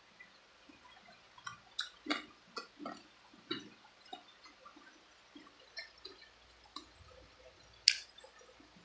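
Close-up chewing and crunching of spicy chicken feet: irregular wet smacks and sharp crisp clicks, with one much louder crack about eight seconds in.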